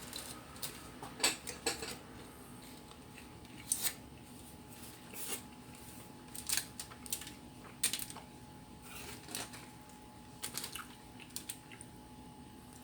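Eating and food-handling noises: scattered light clicks and taps, about one or two a second, over a faint steady hum.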